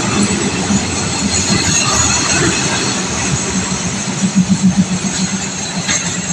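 Commuter train running into a station and slowing, with a steady rumble of wheels and engine. About four seconds in comes a quick run of wheel clicks over rail joints.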